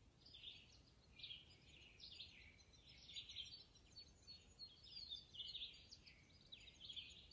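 Faint birdsong: short, high chirping phrases repeating about once a second, over quiet open-air background noise.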